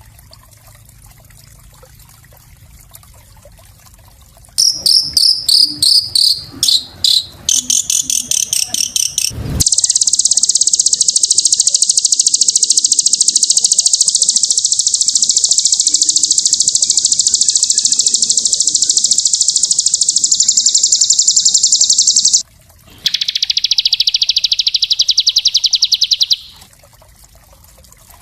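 Small songbird singing fast, dense trills. A run of quick high chirps starts about five seconds in, followed by a long, very rapid high trill of about twelve seconds. After a brief break comes a shorter, slightly lower trill.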